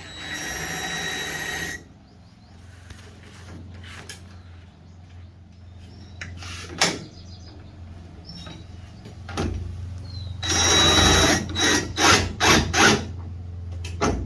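Power drill driving screws in short trigger bursts: a run of about a second and a half near the start, then another longer run about ten seconds in, followed by four quick blips.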